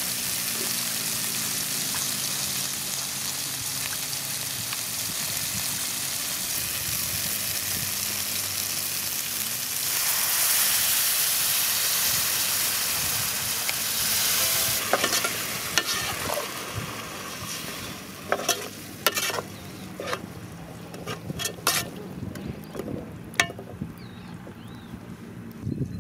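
Onion, green chilli and masala curry base sizzling in an aluminium pot over a wood fire. The hiss grows louder about ten seconds in, then dies down into scattered clicks and knocks.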